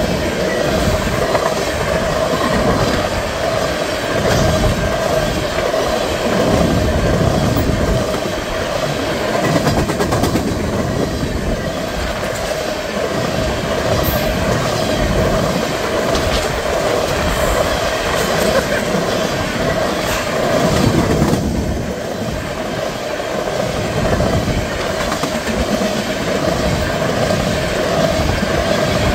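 Freight train of tank cars rolling past: a steady rumble of steel wheels on rail, with irregular clicking as the wheelsets cross rail joints.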